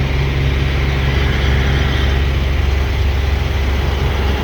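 Heavy diesel engine idling steadily at close range, a low, even rumble.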